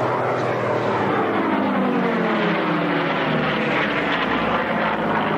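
A propeller aircraft flying past at an airshow. Its engine note falls steadily in pitch as it passes.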